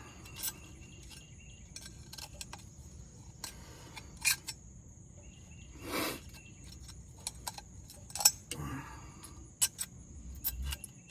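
Hand cleaning of small metal vanes: scattered light metallic clicks and taps of tools and parts, with a brief louder scrape about six seconds in. A steady high insect drone runs underneath.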